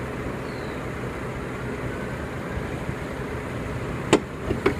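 2014 Mercedes-Benz C350's 3.5-litre direct-injection V6 idling steadily. Near the end there are two sharp clacks about half a second apart.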